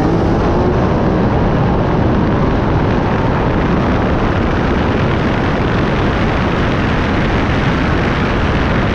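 Loud, steady wind rush buffeting the microphone, with the tone of a car engine dying away in the first second.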